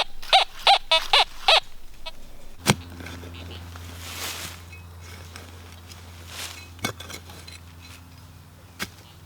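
Metal detector giving a quick run of five short tone beeps, then a click about two and a half seconds in followed by a low steady hum, with a couple of brief scrapes and a knock near the end.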